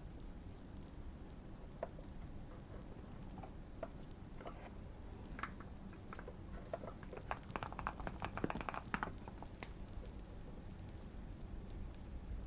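Typing on a tape- and foam-modded Keychron Q1 mechanical keyboard: scattered keystrokes, then a quick burst of typing past the middle. Light fireplace crackling, sparse sharp pops over a low steady rumble, sits underneath.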